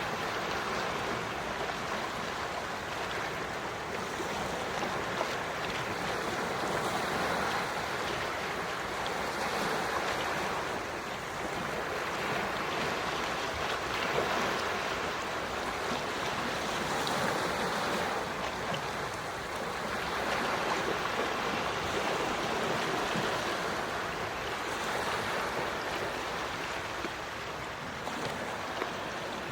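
Gentle sea waves washing onto the shore, a steady rush that swells and eases every few seconds.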